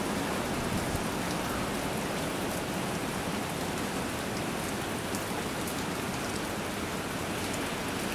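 Steady thunderstorm rain falling: an even hiss with scattered faint drop ticks.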